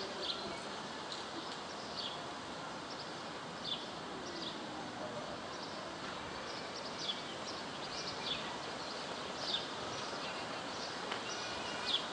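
A small bird repeating short, high, falling chirps about every second or so, over a steady outdoor background hiss.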